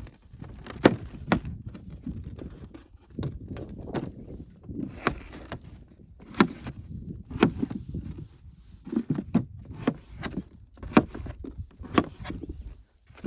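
Irregular sharp knocks and thuds, about one or two a second, with rustling and low rumble between them.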